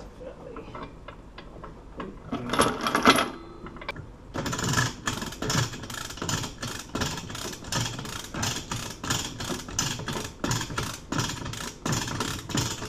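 A clattering rattle of metal about two to three seconds in, then rapid, even mechanical clicking at about three clicks a second while the padlock is being worked in the bolt cutters.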